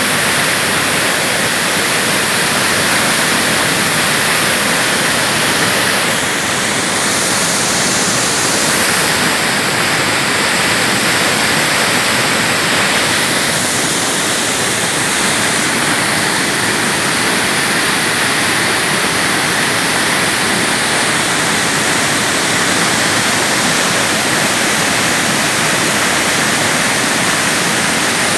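Iguaçu Falls thundering: a loud, steady rush of falling water.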